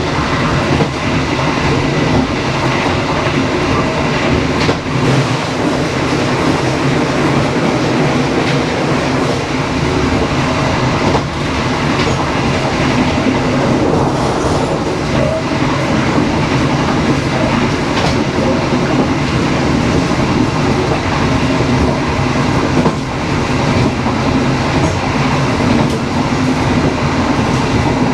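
Dharmawangsa passenger train running steadily along the track: a continuous rumble of wheels on rail, with a few scattered clicks from rail joints.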